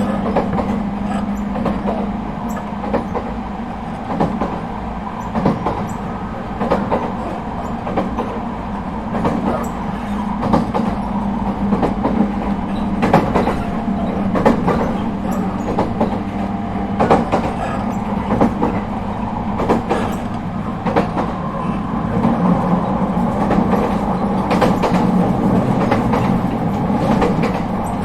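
ET127 series electric multiple unit running at steady speed: a constant rumble with a steady hum from the traction equipment, and wheels clicking over rail joints now and then.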